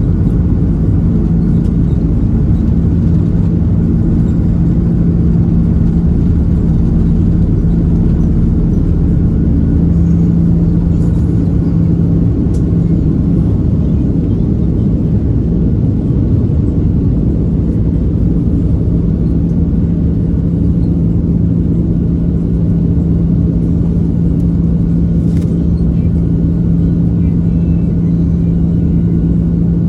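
Airbus A330-300 engine and airflow noise heard inside the passenger cabin: a loud, steady rumble with a constant low hum, and a couple of faint clicks.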